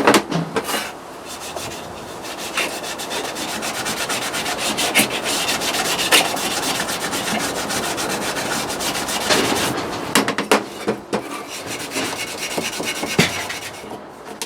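Continuous rubbing and scraping made of many quick strokes, with a few sharper knocks scattered through it.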